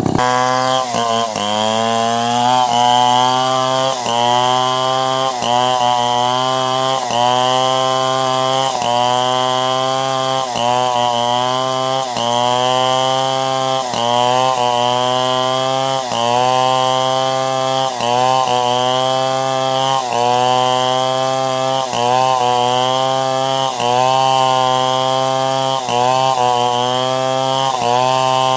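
Two-stroke chainsaw running hard under load, cutting a log into planks. Its engine note dips and recovers in a steady rhythm, about once every 1.3 seconds, as the saw bogs down in the cut.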